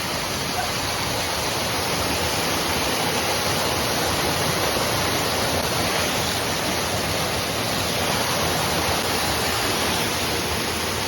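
Small waterfall splashing and rushing steadily, swollen by heavy rain.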